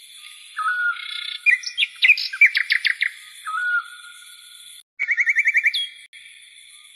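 Birds singing: repeated short whistled calls and fast chattering trills over a steady high-pitched background tone. Everything cuts out for an instant about five seconds in, then the trilling resumes.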